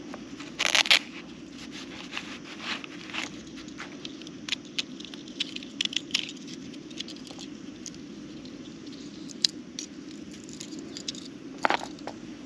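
Scattered short clicks, knocks and scrapes of things being handled, the loudest a clatter about a second in and sharp knocks near the end, over a steady patter of rain.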